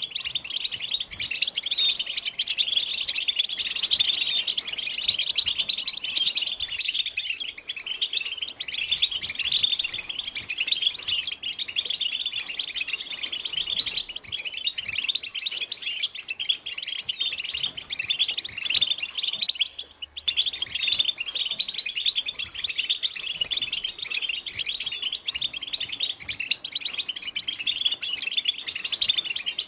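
European goldfinches chattering and singing together: a dense, unbroken stream of fast twittering and trills, with a brief break about 20 seconds in.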